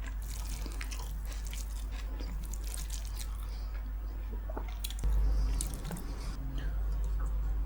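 Close-miked eating: wet chewing and lip-smacking clicks from a mouthful of rice and curry, over a steady low hum.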